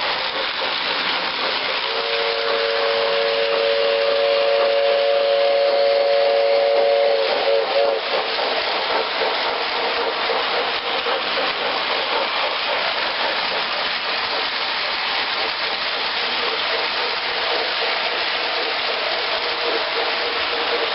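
Steam locomotive running with a steady loud hiss, its chime whistle sounding one chord-like blast of several notes about two seconds in that lasts around five seconds, and sounding faintly again near the end.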